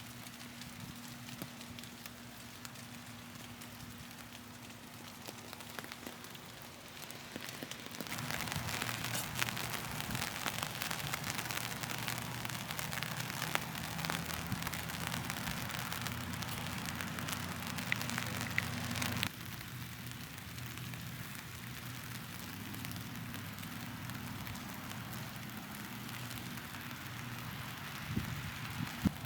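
Rain falling, a dense patter of many small drops, over a faint low steady hum. The patter gets louder about eight seconds in and drops back abruptly a little past the middle.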